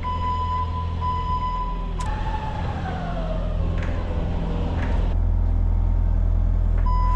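A heavy vehicle's engine runs with a low rumble while its reversing beeper sounds for about the first two seconds and again near the end. In between, a whine falls slowly in pitch, with a couple of sharp clicks.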